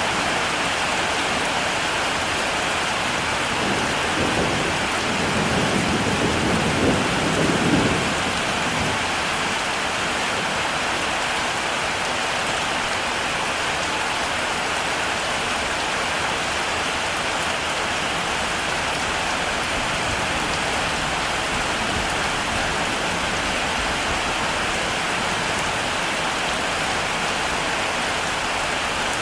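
Heavy rain falling steadily, with a low roll of thunder swelling and fading a few seconds in.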